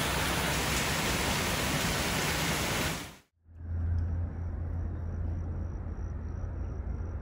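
Torrential rain falling: a loud, dense, steady hiss that cuts off about three seconds in. After a short gap, a much quieter low hum with a faint, steady high tone follows.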